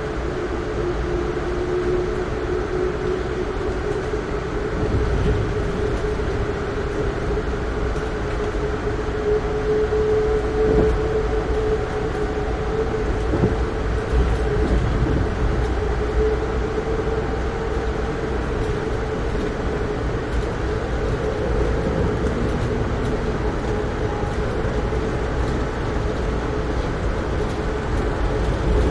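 Amtrak Keystone passenger train running at speed on the rails: a steady low rumble of wheels and car body, with a whine that rises slightly in pitch over about the first ten seconds and then holds level as the train gathers speed after leaving the station.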